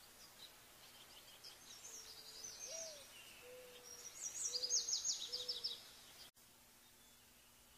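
Birds calling: two bouts of rapid, high chattering trills, with a few low, soft whistled notes between them. The sound cuts off abruptly about six seconds in, leaving only faint background.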